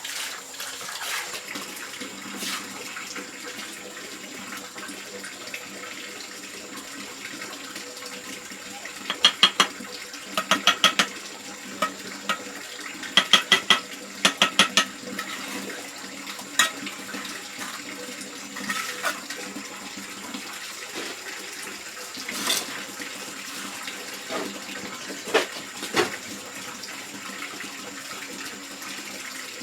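Steady running water throughout, with two short runs of quick clicking taps about a third and halfway through, and a few single sharp knocks later on.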